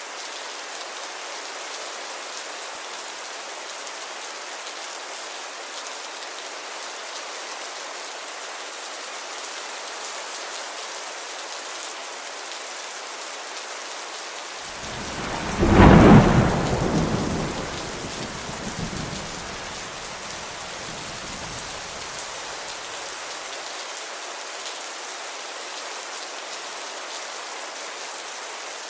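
Steady rainfall hissing throughout. About halfway through comes one loud clap of thunder, which rumbles away over the next several seconds.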